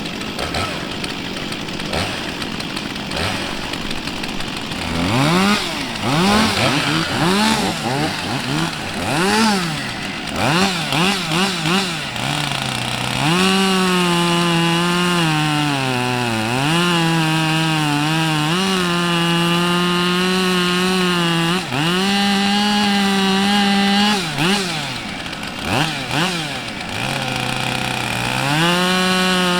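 Gas chainsaw running: it idles at first, is blipped up and down with quick throttle revs from about five seconds in, and from about thirteen seconds is held at high revs for several seconds at a time with short drops. This is typical of a saw being warmed up before cutting.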